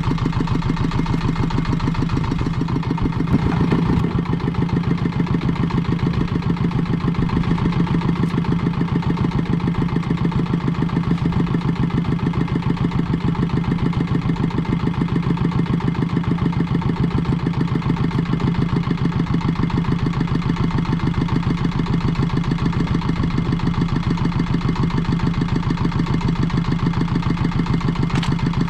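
Engine of a small fishing boat running steadily at a constant speed, close by, with an even rapid chugging.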